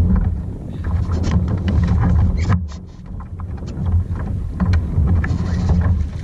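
Wind buffeting the microphone with a heavy, gusting rumble, over water splashing and lapping against a kayak in many short sharp bursts. The rumble briefly drops away about two and a half seconds in.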